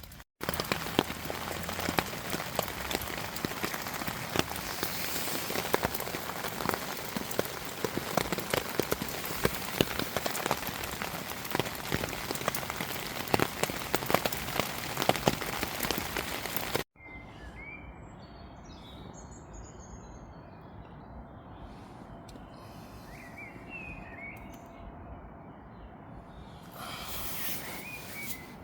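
Steady rain falling on a tarp shelter, a dense hiss with many sharp individual drop hits. It cuts off abruptly about two-thirds of the way through to a much quieter outdoor background with small birds chirping now and then.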